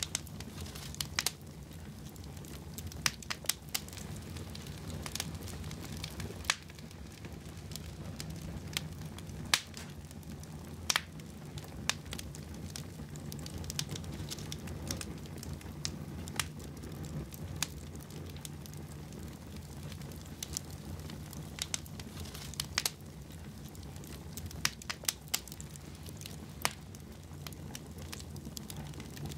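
Wood fire burning in a fireplace, with a steady low rumble under irregular sharp crackles and pops from the logs.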